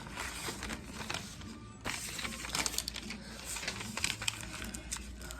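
A sheet of paper rustling and crinkling as it is folded and creased by hand, with irregular small crackles and taps.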